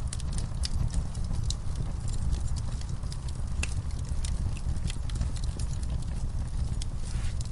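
Wood campfire burning, with frequent small, irregular crackles and snaps over a steady low rumble.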